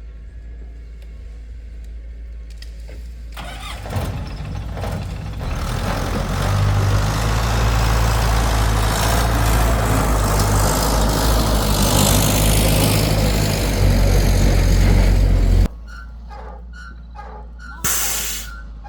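A heavy vehicle's engine runs at a low idle, then builds from about four seconds in to a loud, hard-working run. It cuts off abruptly near the end, leaving a low hum.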